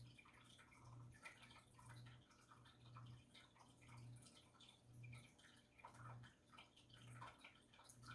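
Near silence: faint trickling and dripping of acrylic pouring paint being added to a cup, over a faint low hum that swells about once a second.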